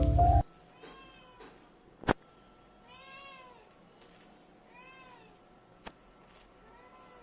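A domestic cat meowing: several soft meows that rise and fall in pitch, about two seconds apart. Two sharp clicks stand out, the louder one about two seconds in; background music cuts off just after the start.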